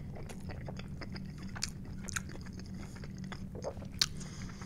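Close-miked chewing of a mouthful of loaded tater tots, a run of small irregular mouth clicks. A fork clicks against the plate about four seconds in.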